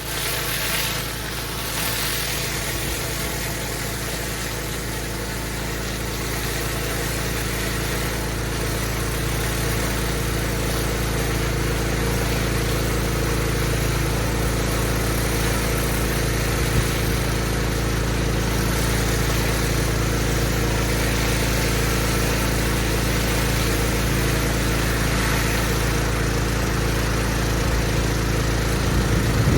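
Pressure washer's engine running steadily, with a broad hiss of water spray over it; the sound grows a little louder over the first several seconds, then holds steady.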